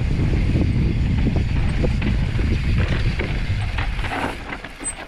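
Mountain bike riding fast down a loose, rocky trail: wind rumbling on the microphone, with the tyres and bike rattling and knocking over the rocks. It eases off about four seconds in as the bike slows.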